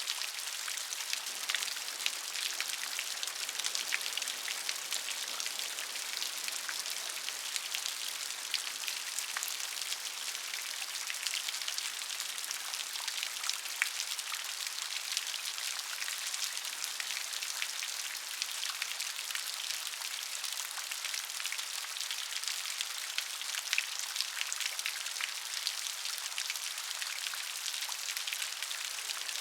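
Steady rain, a bright even hiss dense with the sharp ticks of individual drops striking a surface, with no low rumble or thunder.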